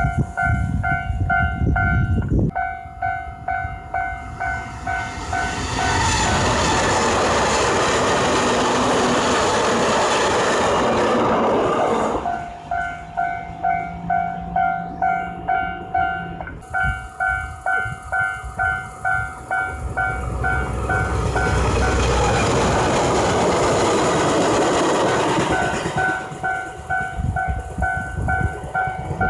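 Railway level-crossing alarm bell ringing in an even pulse of about two strikes a second. It is twice drowned out for several seconds by the rush of a passing train.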